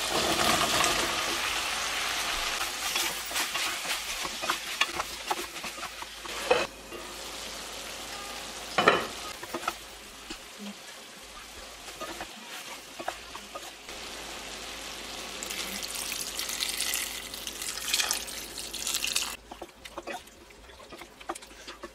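Shrimp and potato curry sizzling in an aluminium pot as zucchini pieces are tipped in, the hiss loudest at first and then fading. A wooden spatula stirs and knocks against the pot throughout, with one sharp knock partway through. The sizzling swells again for a few seconds later on before dying down.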